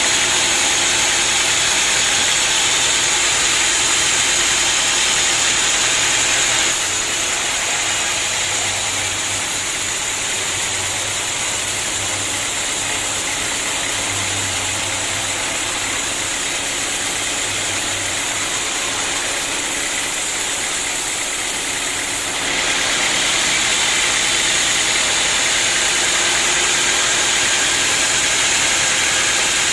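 Sawmill machinery running continuously: a steady engine-like hum under a loud, hissing mechanical noise. The sound steps down abruptly about seven seconds in and steps back up about twenty-two seconds in.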